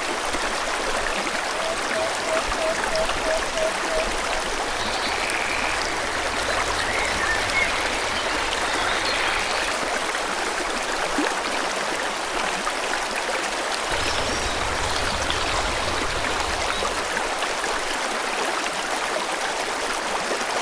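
Steady rush of a forest stream flowing over stones. Early on a bird gives a quick series of about seven short, low repeated notes, and fainter high chirps follow a few seconds later.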